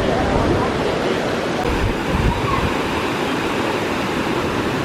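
Steady rush of water from the lower Düden Waterfall.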